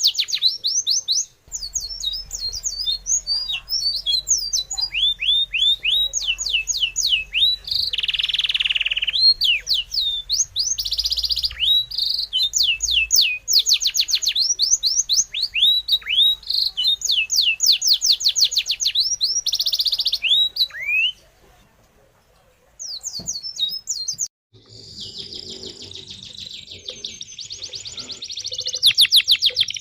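Birds chirping in fast runs of short, high, downward-sliding notes. The chirping stops for about two seconds roughly two-thirds of the way through, then resumes as a denser, busier chatter.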